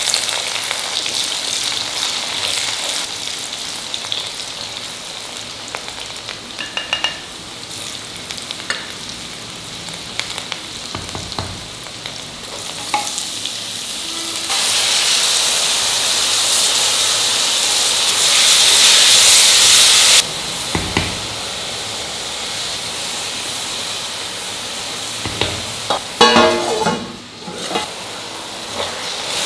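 Garlic and green chillies sizzling in hot oil in an iron kadai, turning into a much louder, fuller sizzle about halfway through once diced radish and soaked moong dal are added, then dropping back suddenly. Scattered clicks and a brief scrape of a utensil against the pan come through the frying.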